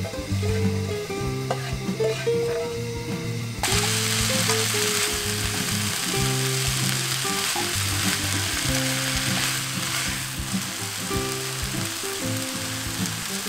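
Seasoned dried radish greens sizzling as they are stir-fried in a pan and stirred; the frying hiss starts suddenly about three and a half seconds in and then runs steadily. Background music plays underneath.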